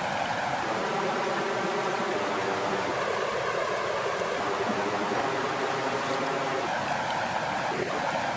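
Water flowing and lapping with a steady, even rush.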